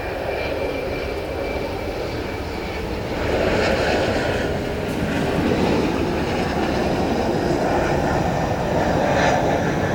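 Twin turbofan engines of a landing Bombardier CRJ-900 regional jet, a steady jet noise that grows louder about three seconds in.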